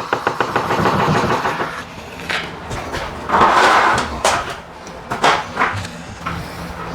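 Professional spray-foam gun dispensing expanding foam with a hiss in short bursts, broken up by clicks and knocks as the gun is handled.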